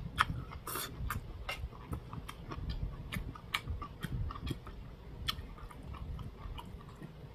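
A person chewing a mouthful of food, with irregular wet smacks and clicks.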